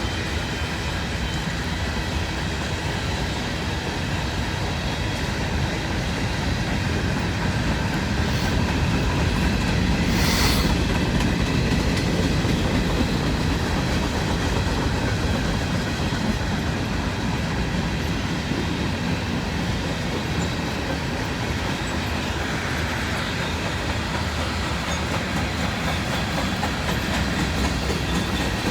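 Freight train cars rolling past at close range: a steady rumble with the clickety-clack of wheels over the rail, and one brief sharp squeal or clank about ten seconds in.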